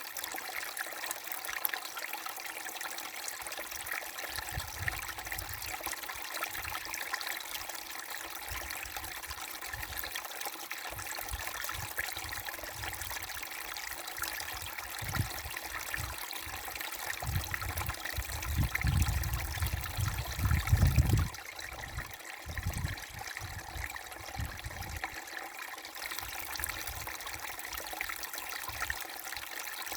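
A small brook babbling steadily over stones, a continuous trickling and gurgling of running water. A low rumble comes and goes beneath it, loudest from about 17 to 21 seconds in.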